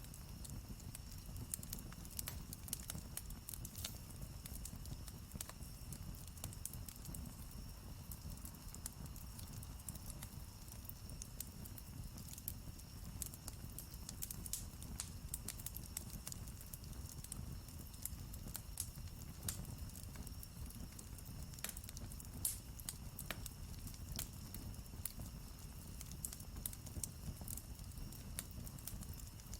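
Campfire crackling: frequent sharp pops and snaps of burning wood over a low steady rumble, with one louder pop a little past two-thirds of the way through.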